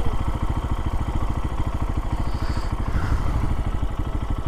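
Lifan KPX250's single-cylinder 250 cc four-stroke engine idling with an even, steady beat.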